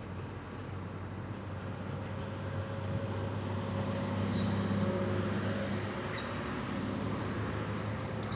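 Motor vehicle running: a steady low engine hum with road noise, growing a little louder around the middle.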